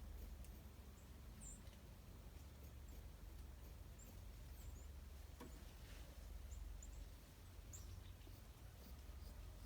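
Faint, scattered short high chirps of small songbirds, over a steady low rumble of outdoor background noise.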